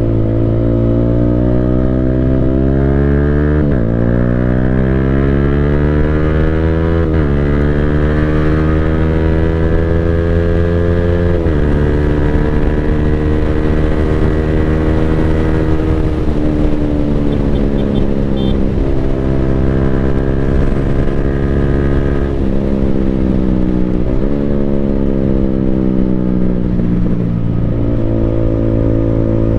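Yamaha Sniper 155R's 155 cc single-cylinder engine through an Akrapovic full-system exhaust, accelerating hard. Its pitch climbs and drops sharply at each quick-shifter upshift, three times in the first dozen seconds. Then it slows with engine braking and more gear changes.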